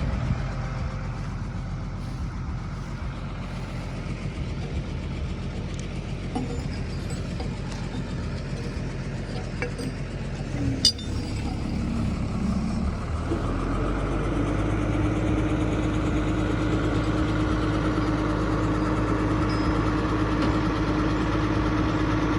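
Heavy truck engine running steadily, with a single sharp metallic clink about halfway through; a little later the engine gets louder and settles into a steadier hum.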